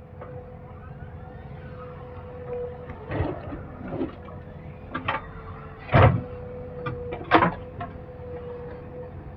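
JCB 3DX backhoe loader's diesel engine running steadily, with a series of sharp knocks and thuds from the machine at work, the two loudest in the second half.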